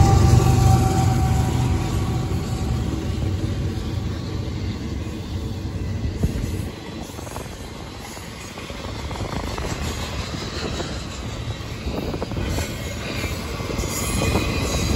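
Freight train passing close by: a diesel-electric locomotive's low engine rumble fades in the first second or so, then double-stack container well cars roll past with their wheels rumbling and clattering on the rails. The noise dips about seven seconds in and builds again toward the end.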